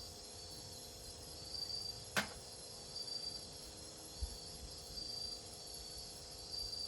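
Forest insects chirping, a high-pitched trill that pulses on and off about once a second over a steady insect drone. A single sharp click cuts through about two seconds in.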